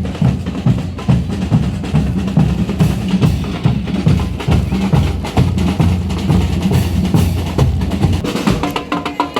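Parade marching-band percussion playing: bass drums beating a quick, steady rhythm with snare drums over it.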